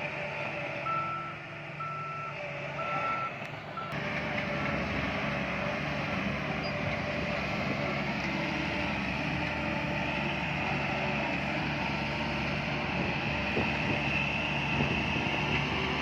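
Reversing alarm on heavy earth-moving machinery, beeping about once a second over a running diesel engine. The beeps stop about four seconds in, and the engine then gets louder and runs steadily.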